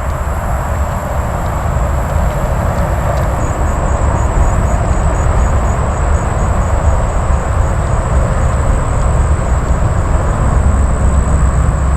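Steady, loud outdoor rumble with a hiss, heaviest in the deep lows and without any distinct events.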